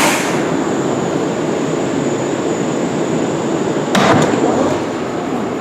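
New York City subway train rumbling as it stands or creeps into the terminal, with a sharp hiss of air at the start and a single clank about four seconds in.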